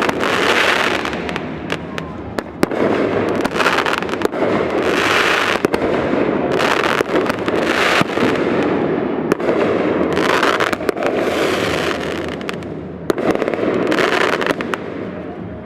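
Fireworks barrage: a dense run of sharp bangs and cracks over continuous crackling, with repeated swells of sizzling noise throughout.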